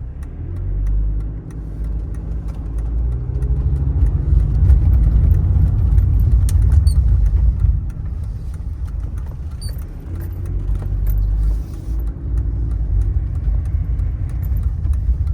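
Car driving, with low engine and road rumble. The engine pitch climbs twice as the car accelerates, and the first pull eases off about eight seconds in.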